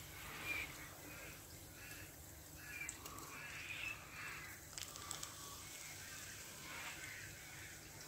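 Birds calling off and on over a faint, steady low hum. The molten copper being poured into the ingot moulds makes no clear sound of its own.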